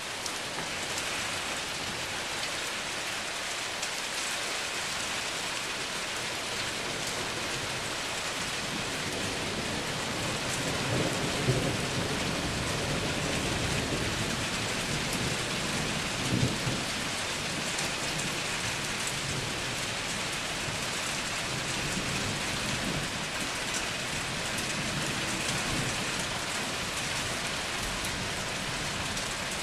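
Steady rain falling during a thunderstorm. A low rumble of thunder swells from about ten seconds in, peaks twice and dies away.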